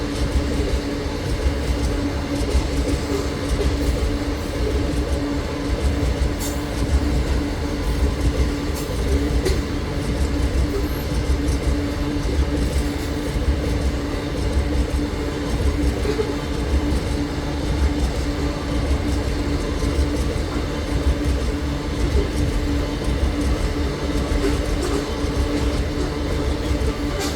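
Freight train rolling by: a steady rumble of the wagons with a constant low hum and scattered faint clicks from the wheels and rails.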